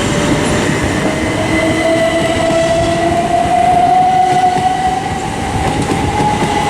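Southern Class 377 Electrostar electric multiple unit pulling away, its traction motors giving a whine that rises slowly in pitch as it accelerates, over the rumble of the wheels on the track.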